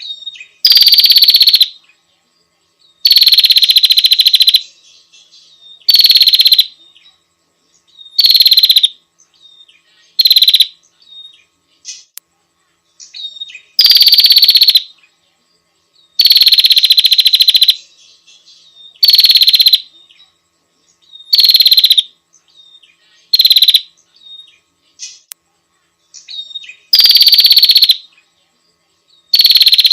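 Prinia giving harsh, buzzy rasping calls, each lasting about a second, repeated every two to three seconds, with faint short chirps in between.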